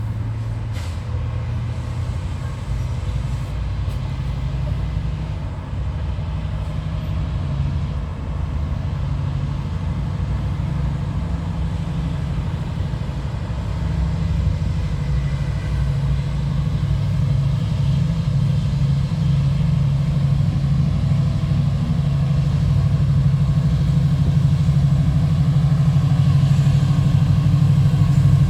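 Diesel train engine running steadily with a low drone that grows gradually louder.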